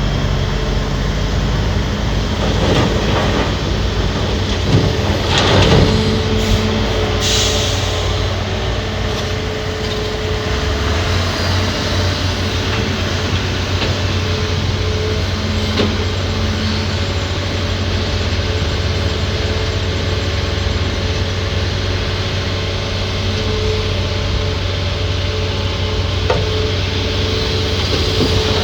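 Hitachi ZAXIS200 hydraulic excavator's diesel engine running steadily under load while working rock, with a few sharp knocks around 3 and 6 seconds in and a brief hiss about 7 seconds in.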